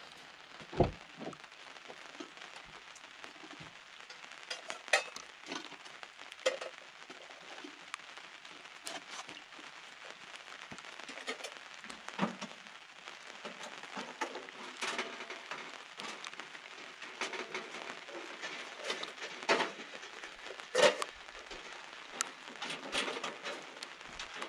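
Steady rain falling, with scattered drips and a handful of louder sharp knocks, the strongest about a second in and near 20 to 21 seconds.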